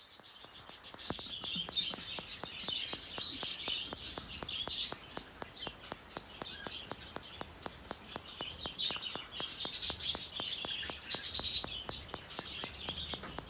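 Hagoromo budgerigars chirping in short, high, scratchy bursts, busiest and loudest toward the end. Under them runs a steady faint ticking, about four ticks a second.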